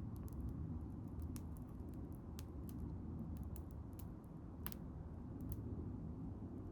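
Wood bonfire crackling: irregular sharp pops and snaps over a low steady rumble, with one louder pop about two-thirds of the way through.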